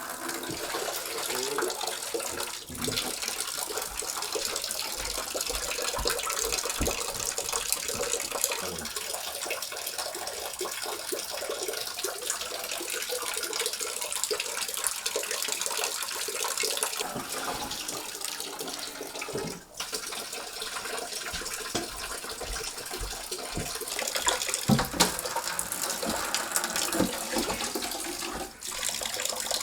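Rainwater pouring steadily through a storm-damaged ceiling and splashing into a bucket, a continuous rushing splatter that briefly breaks off three times.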